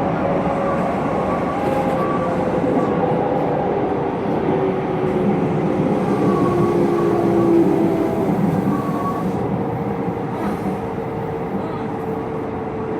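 Hokuso Railway 9100 series electric train running, a steady rail rumble with a faint tone that slowly slides in pitch.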